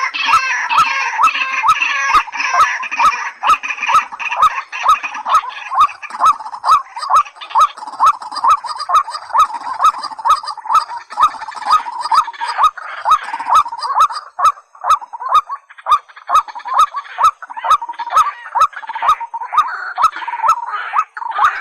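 Rail calls, as of white-breasted waterhens and watercocks: a short note repeated in a fast, even series of about three a second, with a thin clicking running under it at a steady pace.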